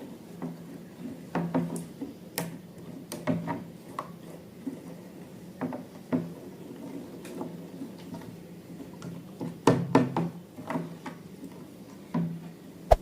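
Irregular small taps and clicks from handling slime-making things on a table, over a steady low hum.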